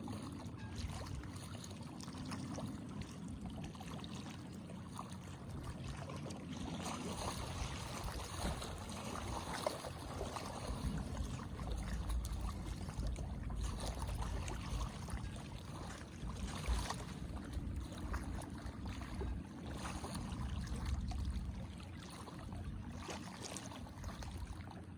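Small waves lapping and splashing gently at the water's edge, a steady wash dotted with little splashes, over a low, uneven rumble.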